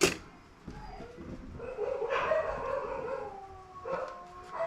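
A dog howling, a long wavering call that slowly falls in pitch, starting about a second and a half in. A sharp click comes right at the start.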